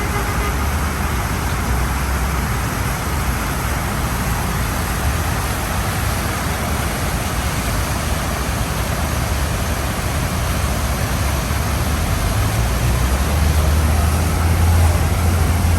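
City street traffic noise: a steady wash of passing cars and engines, with a low engine rumble growing louder near the end as a heavy vehicle draws close.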